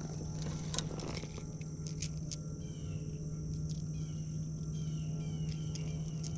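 Outdoor insect chirring, a steady high buzz, with short falling chirps repeating in the background. Under it runs a steady low hum, and there are a few sharp clicks, one just under a second in.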